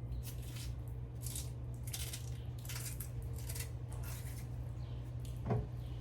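Knife scraping and cutting raw cassava: short scratchy strokes about one every half second to a second, over a steady low hum. A single knock about five and a half seconds in.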